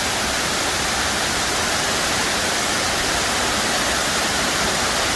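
Waterfall rushing close by, a steady, even roar of falling water.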